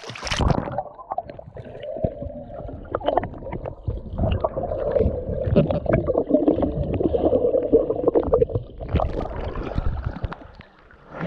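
A splash, then muffled water gurgling and sloshing with irregular knocks, as heard with the microphone underwater while someone swims.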